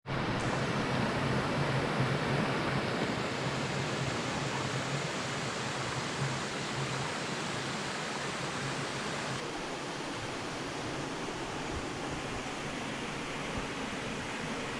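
Mountain stream running: a steady rush of water that changes slightly in tone about nine seconds in.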